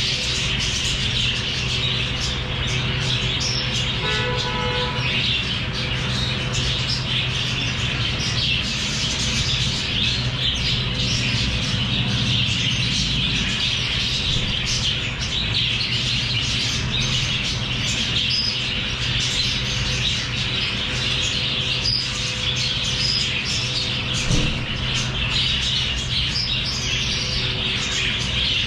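A flock of small pet parrots chattering, with dense, continuous chirping and squawking over a steady low hum.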